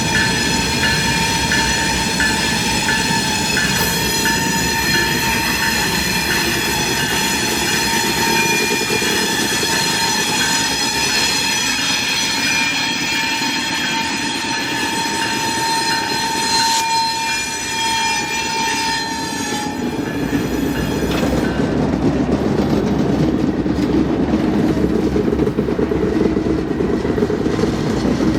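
A train passing close by. For about the first twenty seconds a steady high-pitched squealing tone rings over the running noise, then it stops, and the rumble and clatter of rolling cars grows louder toward the end.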